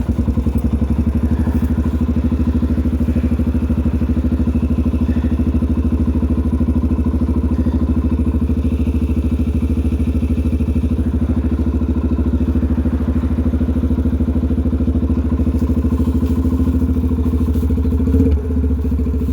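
2003 Yamaha TTR125L dirt bike's single-cylinder four-stroke engine running steadily, with a brief thump near the end.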